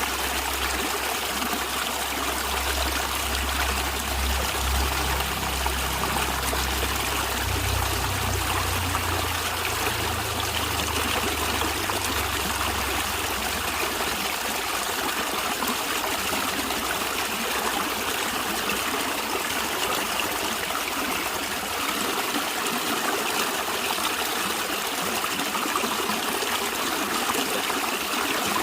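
A stream of water running and trickling steadily, with a low rumble underneath that fades out about halfway through.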